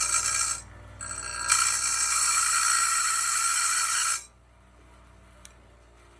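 Small electric grinder's stone wheel grinding the back of a steel bandsaw blade tooth: a harsh, ringing grind that stops about half a second in, then a second longer pass that ends about four seconds in, over the low hum of the grinder motor, which then runs on alone much more quietly.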